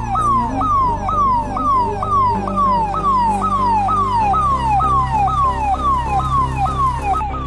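Electronic siren cycling, each sweep a quick rise then a slower fall in pitch, a little over two sweeps a second, over a music bed of held low bass notes that change twice.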